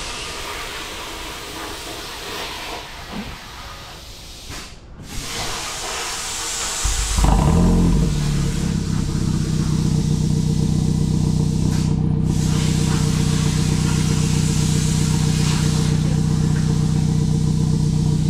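Hyundai Veloster N's turbocharged 2.0-litre four-cylinder starting about seven seconds in, through its newly fitted MBRP exhaust with carbon fiber tips; the sound swells briefly on start-up, then settles into a steady idle. Before it starts there is a steady hiss.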